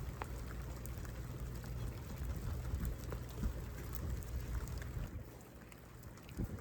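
Rain falling, with scattered drips and patters of drops. A steady low rumble sits under it and fades out about five seconds in.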